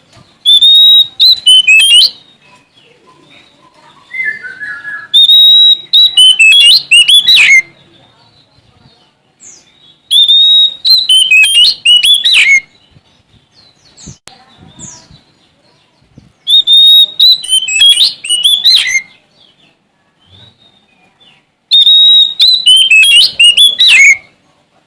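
Oriental magpie-robin (Sumatran kacer) in full song: five loud phrases about five seconds apart, each opening with a steady high whistle and breaking into fast, varied notes.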